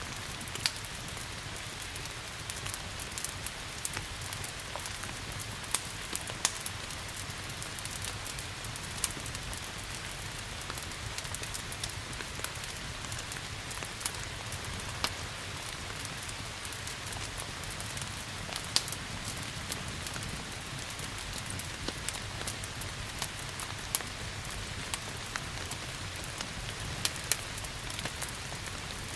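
Steady rain hiss mixed with the irregular sharp crackles and pops of a wood fire burning in a fireplace.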